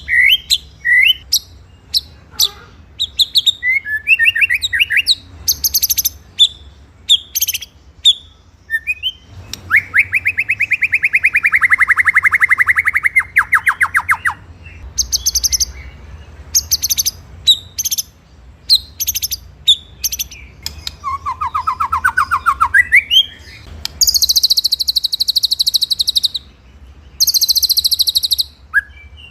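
White-rumped shama (murai batu) singing a varied song of quick sweeping whistled notes. A long rapid trill comes about ten seconds in and another around twenty-one seconds, then shrill high trills in the last few seconds.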